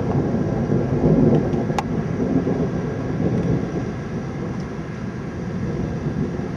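Rolling thunder rumbling, loudest at first and slowly fading. A brief sharp click comes about two seconds in.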